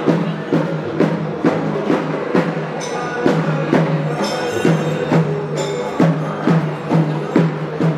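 Kerala temple percussion ensemble, chenda drums with cymbals, playing an even beat of about two strokes a second over a steady low drone, with brighter cymbal clashes in places.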